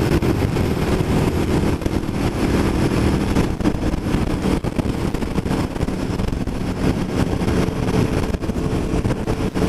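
Aprilia Tuono V4 1100 Factory's V4 engine running steadily under way, heard through its aftermarket Austin Racing exhaust.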